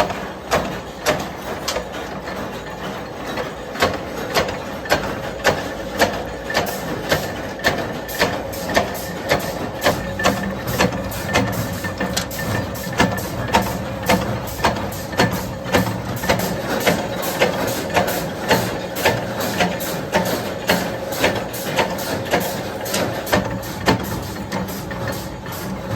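Evenly paced strikes on metal, a little under two a second, from workshop machinery, over a steady machine hum.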